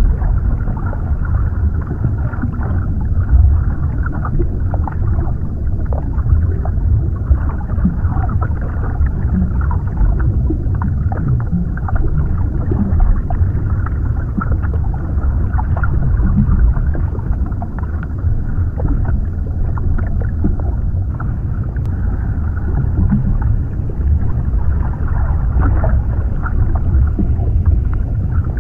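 Underwater ambience: a steady low, muffled rumble of water with faint crackling and bubbling.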